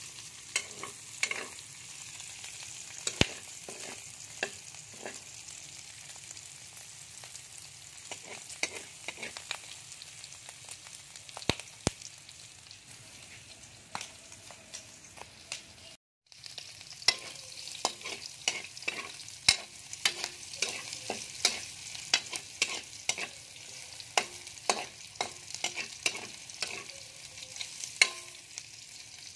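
Pork fat and onion frying in oil in a metal wok, with a steady sizzle and many sharp clicks and scrapes of a utensil against the wok as it is stirred. The sound cuts out for a moment a little past halfway.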